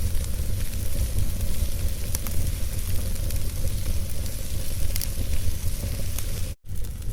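Wood fire burning in a fireplace: a steady low rumble with scattered small crackles and pops. The sound cuts out for a split second about six and a half seconds in.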